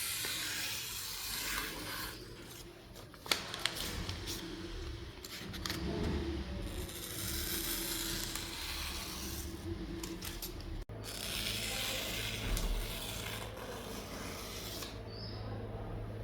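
Kiridashi knife being sharpened: the blade is rubbed across an abrasive sharpening surface in stretches of scraping strokes, with a few sharp clicks and a steady low hum underneath.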